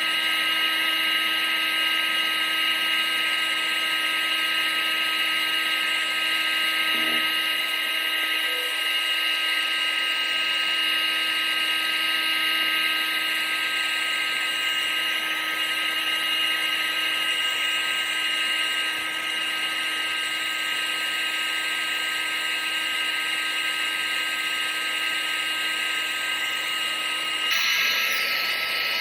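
Vacuum cleaner motor running continuously: a steady rushing whir with a constant high whine over it. Its tone shifts slightly near the end, as a lower hum drops out.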